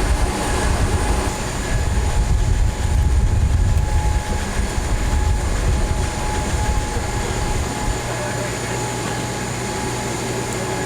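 Steady machinery noise: a low rumble under a constant high whine, with the deepest rumble dropping away about eight seconds in.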